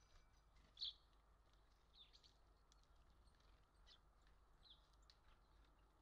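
Faint, scattered chirps of small birds: four or five short high calls, the loudest about a second in, over a low steady hum.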